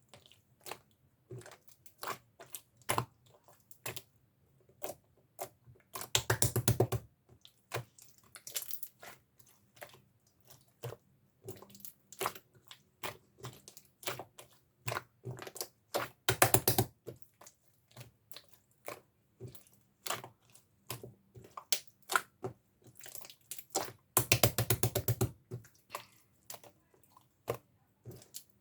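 Clear slime mixed with strawberry toppings being squeezed and pressed by hand: scattered sticky clicks and small pops. There are three longer spells of rapid crackling, about six seconds in, about sixteen seconds in, and a few seconds before the end.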